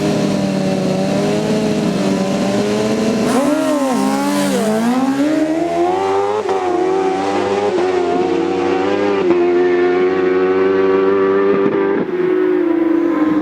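Drag-racing motorcycle engine revving hard. It rises and dips a few seconds in, then climbs steadily in pitch, holds high, and falls away near the end.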